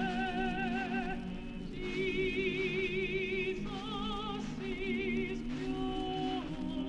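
A choir singing a sacred anthem in long held notes with a clear vibrato, the chord changing about every second.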